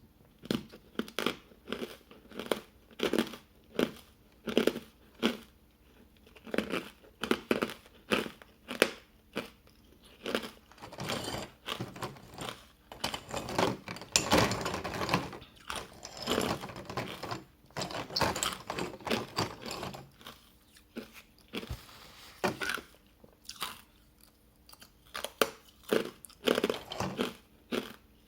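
Close-up chewing of hard ice coated in matcha powder: repeated sharp crunches as the ice is bitten and broken between the teeth, in bursts with short pauses.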